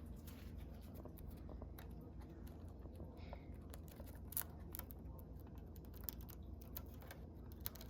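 Scattered light clicks and rustles from hands handling things at close range, over a steady low hum.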